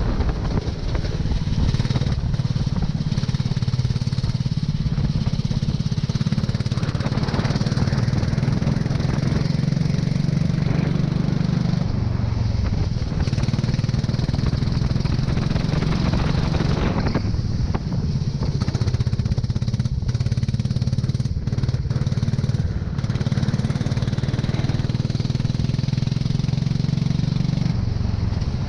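Go-kart engine running continuously on track, its pitch dipping and picking up again a few times as the kart slows for corners and accelerates out of them.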